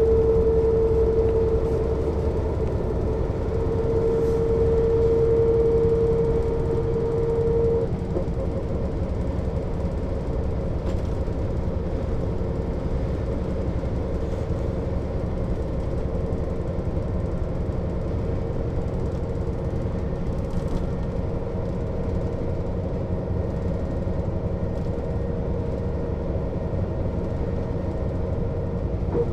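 Mercedes-Benz O 407 city bus's diesel engine and drivetrain running steadily while the bus is under way, with a high whine that is strong for the first eight seconds or so, then fades as the overall noise drops a little.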